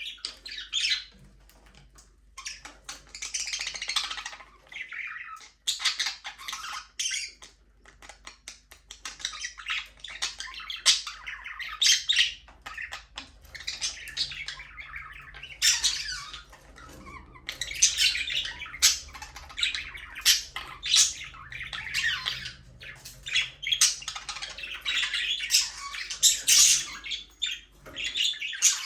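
Several budgerigars chirping and chattering in a busy, overlapping flock, with scratchy squawks among the warbling.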